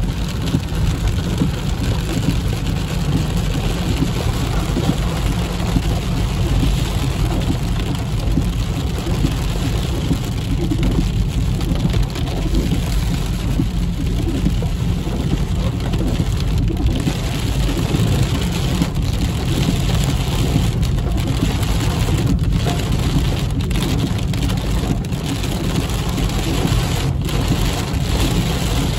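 Heavy rain drumming steadily on a car's windshield and roof, heard from inside the moving car over the low rumble of the car.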